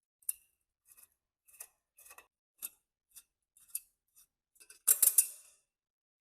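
A series of short, sharp metallic clicks or snips, roughly two a second, then a louder clattering burst about five seconds in, from hand work on small metal parts.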